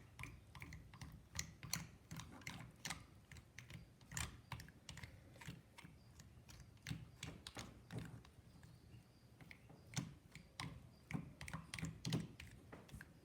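Irregular light clicks and scrapes of a spoon spreading peanut butter over the scales of a pine cone.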